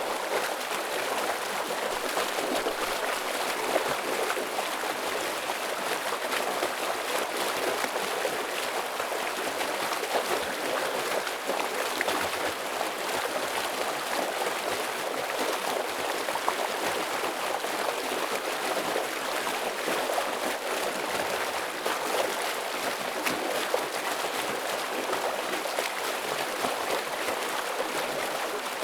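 Fast-flowing stream rushing and splashing over rocks, a steady dense water noise with small splashes throughout.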